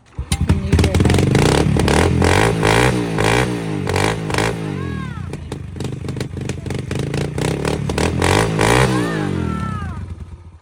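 A 110cc dirt bike engine starting about a third of a second in and then revved up and down again and again, settling lower around the middle, revving once more and falling away near the end.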